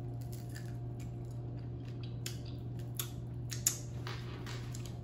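Close-up chewing and lip-smacking of rotisserie chicken, heard as a run of short sharp clicks with a louder one a little before the end. A steady low hum runs underneath.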